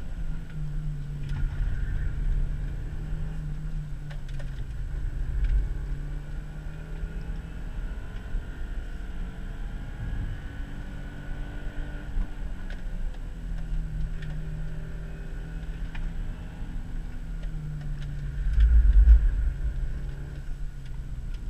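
2000 Subaru Legacy GT's 2.5-litre flat-four engine heard from inside the cabin, pulling and easing off through the curves so its note rises and falls, over steady road rumble. A heavy burst of low rumble comes near the end.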